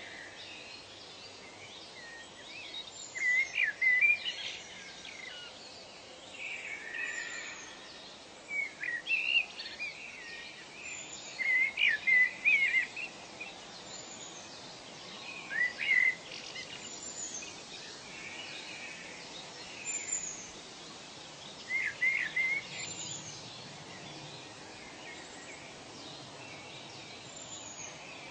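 Wild birds calling in a natural ambience: short bouts of quick, warbling chirps come every few seconds, with a thin high down-slurred note repeating about every three seconds over a steady background hiss.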